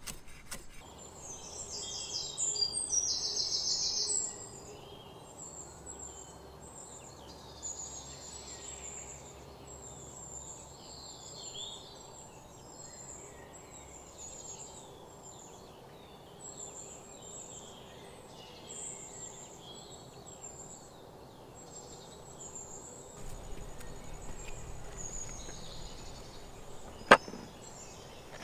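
Wild birds chirping and calling over a steady outdoor background, with a loud rapid trill in the first few seconds. A single sharp knock stands out near the end.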